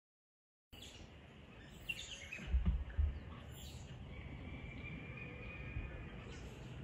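Faint background noise with a few small bird chirps and a thin held high note, broken about two and a half seconds in by two dull low thumps, which are the loudest sounds. The first moment is dead silence.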